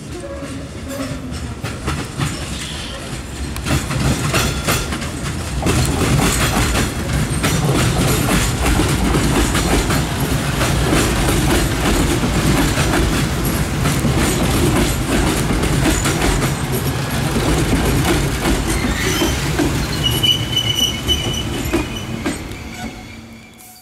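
Nose Electric Railway electric train running past on the adjacent track, its wheels clicking over the rail joints, getting louder about four to six seconds in. A brief high wheel squeal comes about twenty seconds in.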